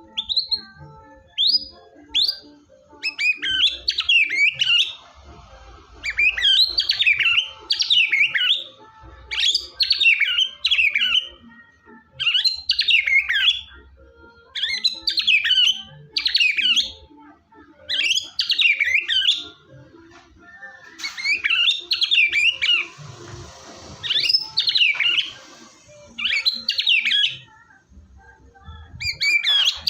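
White-rumped shama (murai batu) in full continuous song: loud, fast, warbling phrases of a second or two each, repeated with short pauses, opening with three short rising whistles.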